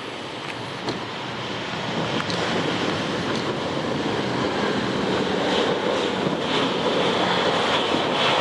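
Jet engine noise of an Airbus A321 growing steadily louder as the airliner approaches, with wind buffeting the microphone.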